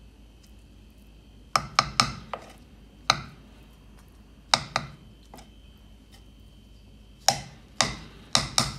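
A utensil clinking and knocking against cookware or dishes in irregular clusters of sharp, ringing strikes. There are four in quick succession about a second and a half in, a few more around three and four and a half seconds, and a denser run near the end.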